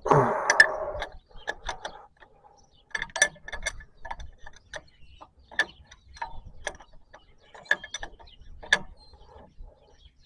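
Scattered metal clicks and clinks of a 19 mm wrench working a diesel fuel line fitting at the tractor's fuel pump, loosening it to check whether fuel reaches the pump. A short scraping burst comes at the start.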